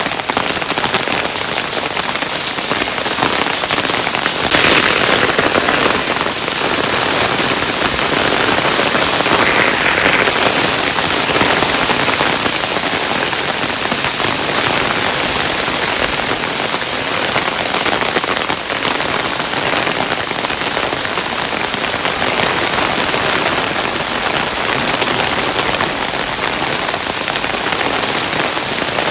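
Hailstones falling steadily, a dense patter of many small impacts on a hard surface, swelling briefly a few seconds in and again about ten seconds in.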